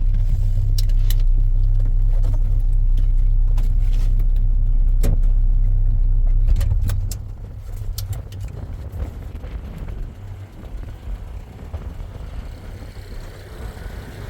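A vehicle engine running with a steady low hum, heard from inside the vehicle, with scattered small clicks and knocks. About seven seconds in, the hum drops sharply, as if the engine is shut off or cut back, leaving a quieter rumble.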